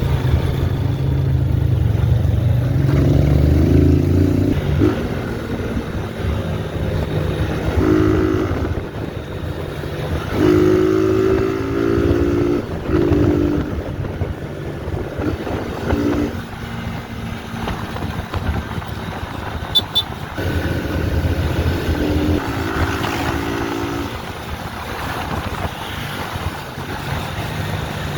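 Motorcycle engine running while being ridden, its note rising and falling again and again with the throttle and gear changes.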